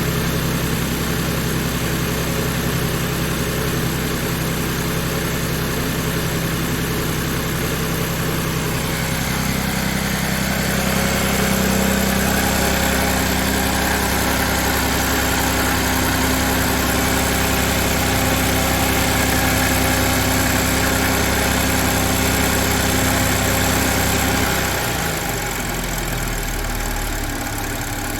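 Audi A7 3.0T supercharged V6 running with a quart of Marvel Mystery Oil in the crankcase, added in the hope of quieting its timing chain rattle. It idles steadily; about nine seconds in the engine speed rises a little and holds, then drops back near the end.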